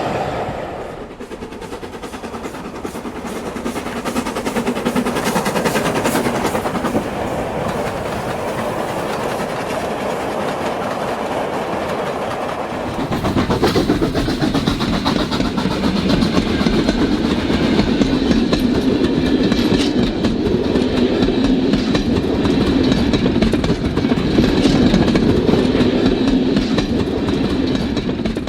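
Model trains running on a layout, their wheels clicking rapidly over the rail joints. The running grows louder and fuller about halfway through, with a faint steady whine above it.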